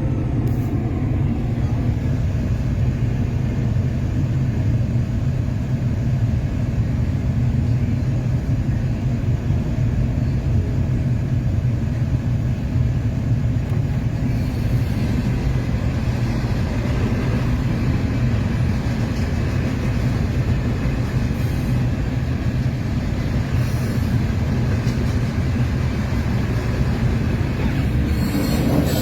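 Train passing close by: a steady, heavy low rumble from the locomotives and rolling cars, with higher-pitched rail noise rising near the end.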